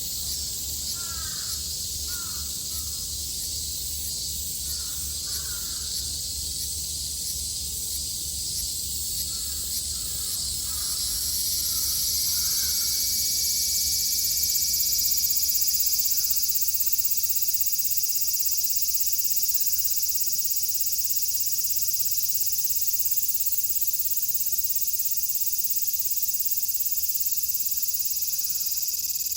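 Cicadas droning in a continuous high buzz that swells louder about twelve seconds in and stays strong. A bird calls in short repeated notes through the first half.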